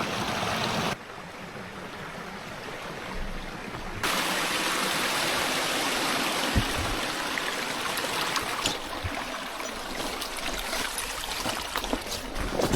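Steady rush of running water, like a stream. It changes level abruptly about a second in and again about four seconds in, with a few faint clicks near the end.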